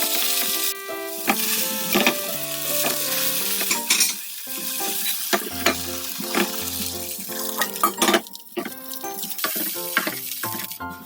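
Seafood green-onion pancake (haemul pajeon) frying in oil in a pan: a steady sizzle, with sharp clicks of a utensil against the pan.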